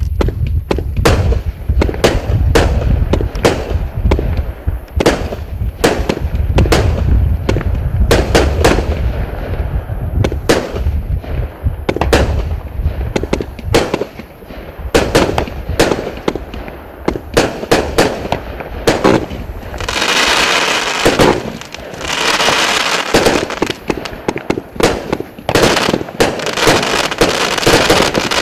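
A 158-shot, 0.8-inch consumer firework cake firing shot after shot, about two sharp reports a second over a low rumble. About twenty seconds in, two stretches of dense crackling hiss of a second or two each come from the crackling and pulsing star effects.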